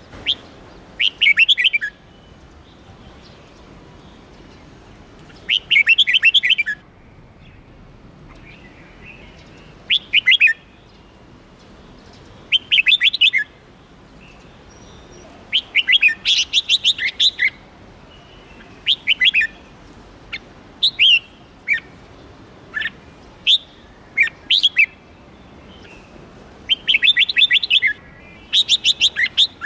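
A songbird singing in short bursts of rapid, repeated chirping notes, each burst about a second long, coming every few seconds with pauses between.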